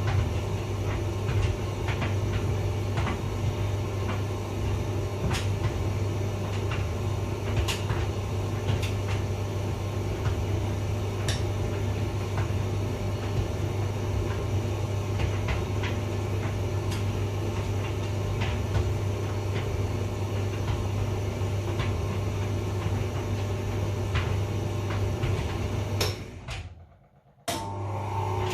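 Hotpoint vented tumble dryer running with a steady motor hum and scattered light clicks and knocks from the turning drum. Near the end the sound drops away to near silence for a moment, then returns abruptly with a slightly different hum.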